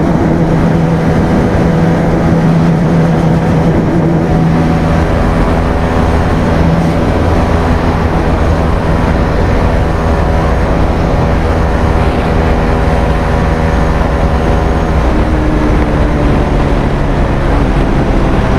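Bajaj Pulsar 220F's single-cylinder engine running through an aftermarket Akrapovic exhaust while being ridden, with a low rumble of wind and road noise. The engine note holds steady, shifting in pitch a few times.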